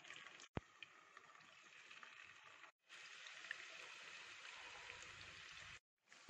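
Marinated chicken pieces frying in hot coconut oil in a pan, a faint sizzle with fine crackles that gets a little louder partway through and drops out briefly twice.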